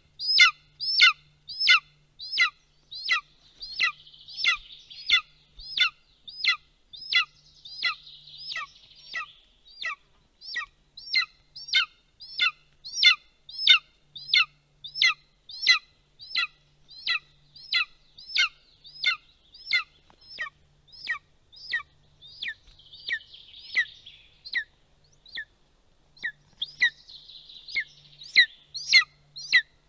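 Golden eagle at the nest giving a long, steady series of high, down-slurred calls, nearly two a second. There is faint twittering among them at times.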